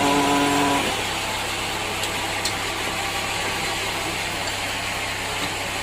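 Sawmill machinery running steadily. A pitched whine cuts off suddenly under a second in, leaving a steady hum and hiss.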